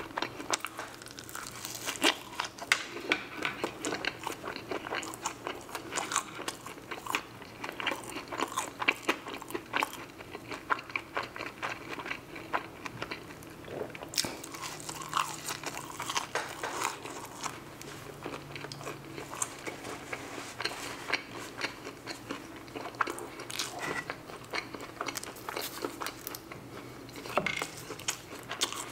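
Close-miked chewing and crunching of french fries: a steady run of irregular crisp bites and wet mouth noises.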